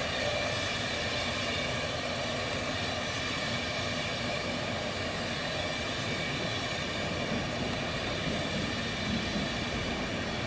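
Long electric passenger train passing, a steady rumble of wheels on rails with a faint hum running through it.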